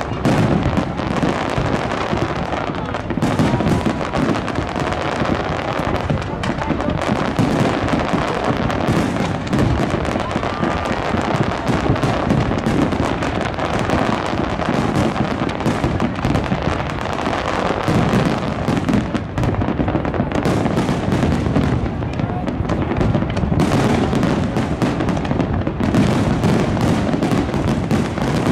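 Fireworks display going off in a dense, unbroken barrage of many overlapping bangs.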